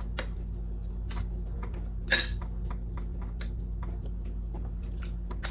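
Someone eating: scattered light clicks and clinks, with a louder one about two seconds in, over a steady low hum.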